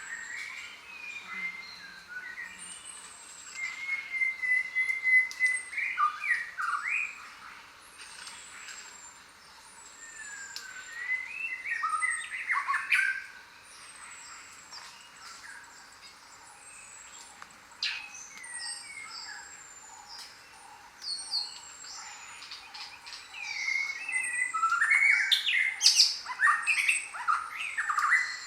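A chorus of several jungle birds calling and singing at once: whistled glides, trills and chirps. A steady high insect-like hiss runs underneath. The calling swells in bursts, busiest about four seconds in, around twelve seconds, and again near the end.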